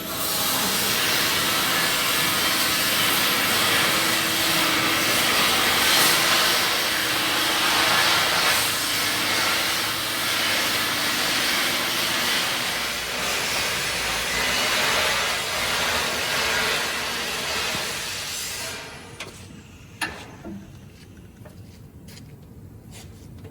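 A loud, steady hiss that cuts out about nineteen seconds in, followed about a second later by a single sharp knock.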